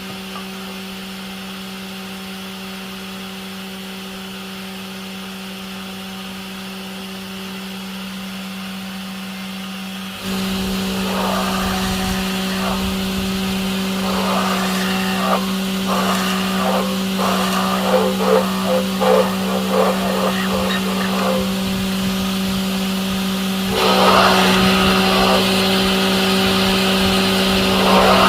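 A motor running with a steady hum that gets louder about ten seconds in and again near the end, with irregular rattling or voice-like sounds over it in the second half.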